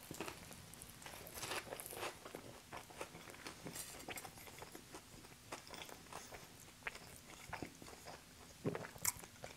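A person chewing a bite of pizza, with many small crunches.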